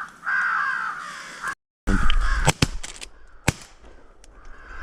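Crow calls cawing repeatedly, then, after a brief cut, two sharp shotgun shots about a second apart: a double tap at an incoming crow.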